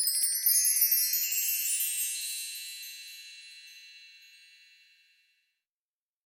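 A cascade of high, bell-like chime tones struck together at the start, then ringing out and fading away over about five seconds.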